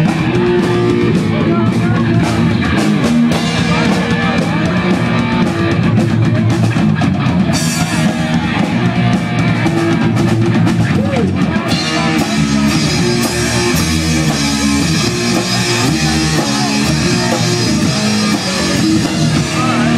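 Live punk rock band playing loud and distorted: electric guitars, bass and drum kit with crashing cymbals, the cymbals thicker from about halfway through.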